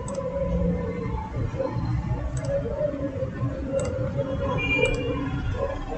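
A few short computer mouse clicks, spaced a second or more apart, over a steady low hum of background noise.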